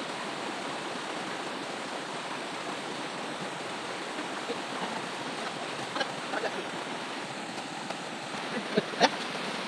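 River water flowing steadily over rocks, with a few short, sharp sounds about six seconds in and again near the end.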